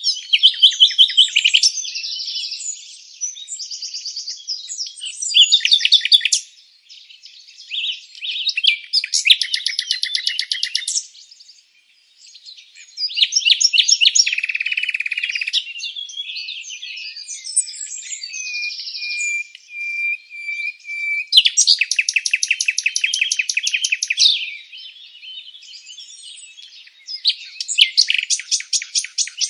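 Songbirds singing: a string of separate phrases of high chirps and fast trills with short pauses between them, and a steady whistled note held for a couple of seconds about two-thirds of the way through.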